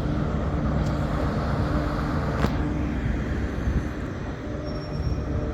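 Diesel train engine running steadily with a low, even hum. There is a single sharp click about two and a half seconds in.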